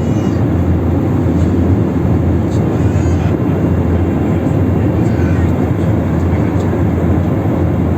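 Steady low noise of an Airbus A321 in flight, its engines and airflow heard from inside the passenger cabin.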